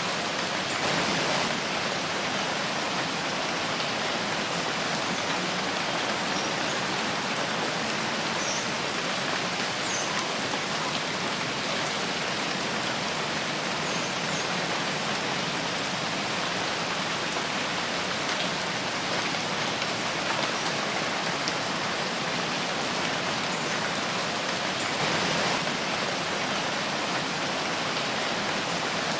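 Steady rain falling in a forest, a dense even hiss of drops with fine patters, swelling slightly about a second in and again near the end.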